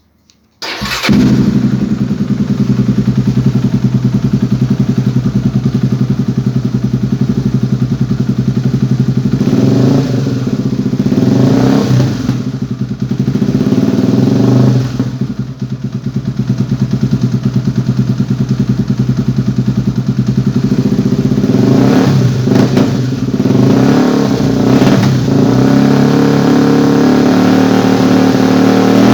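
Honda Tornado 250 motorcycle's single-cylinder four-stroke engine running loud through an aftermarket Speed Tango exhaust. It cuts in suddenly under a second in, idles, and is blipped on the throttle several times.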